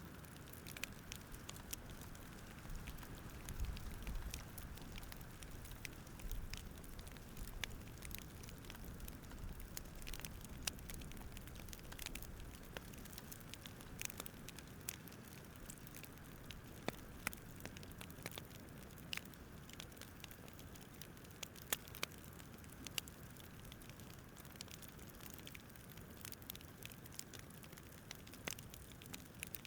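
Wood fire crackling, with irregular sharp snaps and pops over a low, steady rumble of burning logs.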